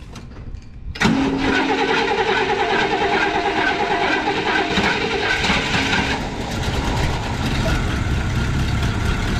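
A 1973 Cadillac Eldorado's 500 cubic inch V8, on its freshly fitted carburetor, cranks and fires right up about a second in. It runs fast with a whine over it that drops away about six seconds in, then settles into a steady idle.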